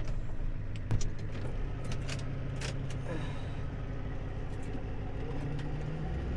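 Tow truck engine idling steadily, with a few light clicks in the first few seconds and a deeper hum coming in near the end.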